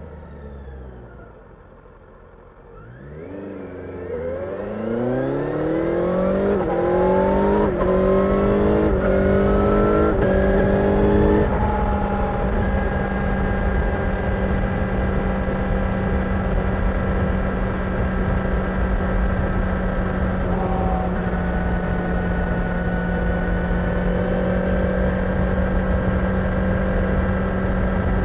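Kawasaki Ninja 1000SX's inline-four engine slowing off at first, then accelerating hard with the revs climbing and dropping through several quick upshifts over about eight seconds. After that it holds a steady cruise, the engine note constant under a rush of noise.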